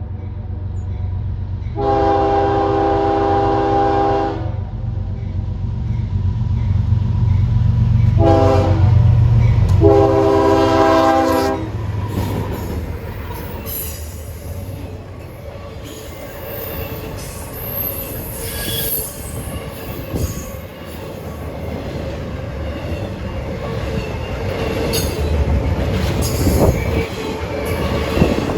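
A train passing close by: the locomotive blows its chime horn three times, long, short, long, over a deep engine rumble. The cars then roll past with wheel squeal and clatter.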